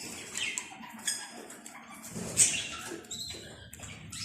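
Pet budgerigars making scattered short, high chirps and small clicks.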